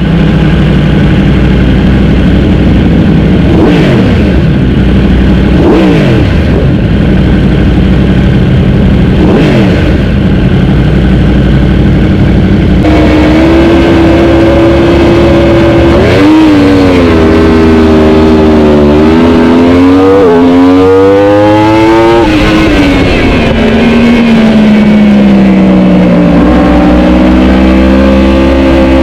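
Racing superbike engines. In the first half an engine runs steadily while three times something sweeps past with a falling pitch. About halfway through a motorcycle engine comes in loud, accelerating hard, its pitch climbing and dropping again and again through the gear changes.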